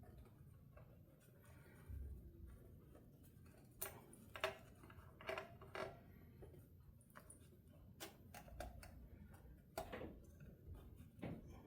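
Faint, scattered clicks and taps of hands working on an electric guitar, covering its pickups to keep metal filings off them.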